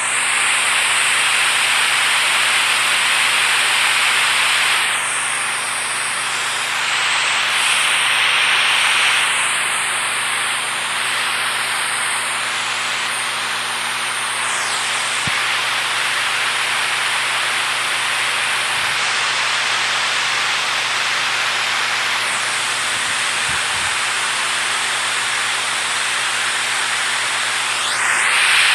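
Rushing water: a steady, dense hiss with no distinct drips or splashes, like a waterfall or fast stream.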